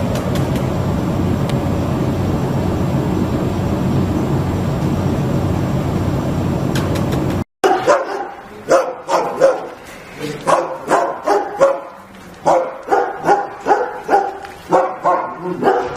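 A steady low noise, then, after a cut about halfway through, a dog barking repeatedly, about two barks a second.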